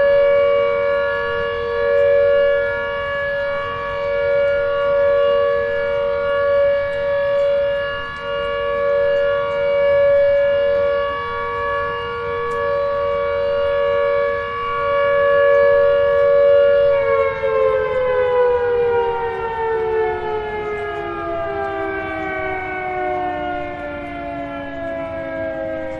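Tornado warning siren sounding a steady two-note tone, its loudness swelling and fading every couple of seconds. About two-thirds of the way through the pitch begins sliding steadily down as the siren winds down.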